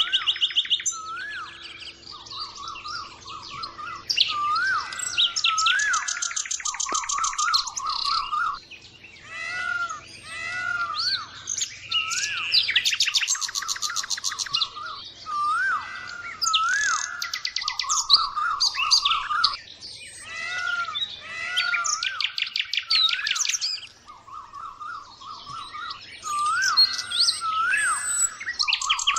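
Small birds chirping and twittering, with short rising-and-falling whistles and fast trills that come in phrases every few seconds.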